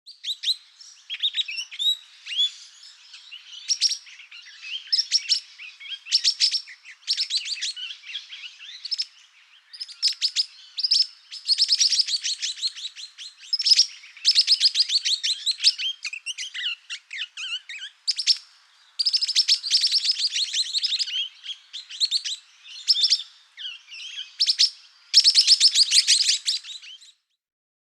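African lovebirds chattering: rapid high-pitched chirps in dense bursts, one cluster after another, cutting off near the end.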